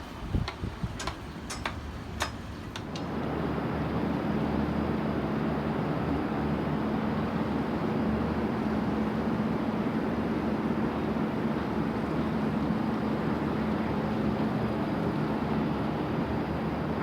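A few clicks and knocks, then from about three seconds in a steady mechanical rumble with a low, even hum.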